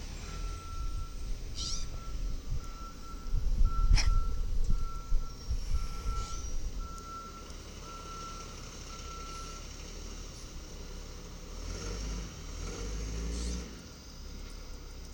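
Side-loader garbage truck backing up: its reverse alarm beeps steadily about once a second, stopping after about ten seconds, over the diesel engine's low running. A sharp bang about four seconds in is the loudest sound.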